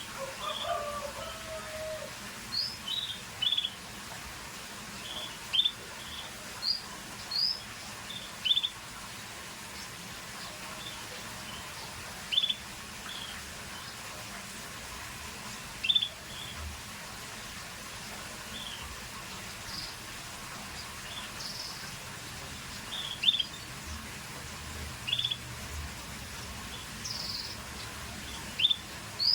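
Scotch Fancy canary giving short, separate high chirps, one every second or two, rather than a continuous song.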